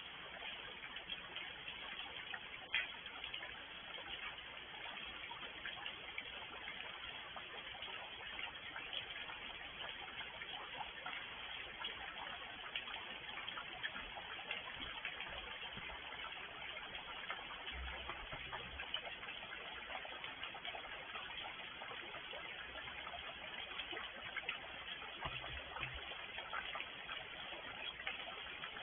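Rain falling steadily, a dense patter of small drop ticks, with one louder tick about three seconds in.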